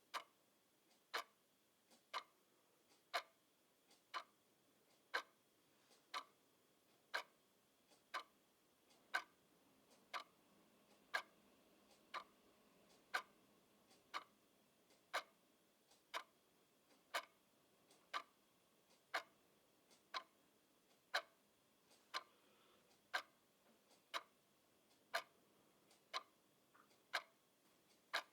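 Clock ticking steadily, about one tick a second, with some ticks louder than others.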